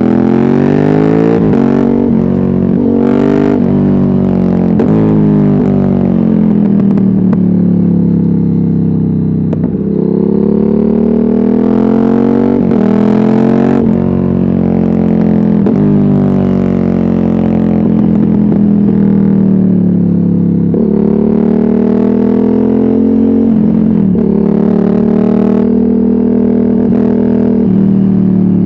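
Ducati Hypermotard 796's L-twin engine through an open Termignoni exhaust with no dB killer, revving up and falling back again and again as the bike accelerates and backs off. The note climbs, holds high for a couple of seconds near the middle, and drops away.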